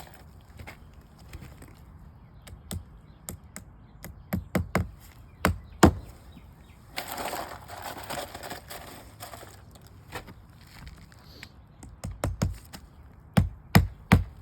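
Hammer striking roofing nails on an asphalt shingle roof: sharp knocks in short groups of two to four, with a few seconds of softer scraping noise around the middle.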